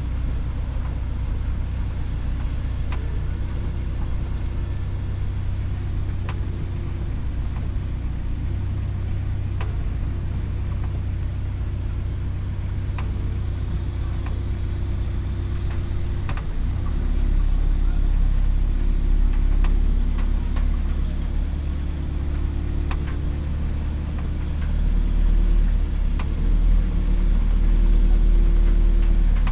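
A vehicle engine running with a steady low hum. About halfway through, its note drops lower and deepens, and it grows louder toward the end.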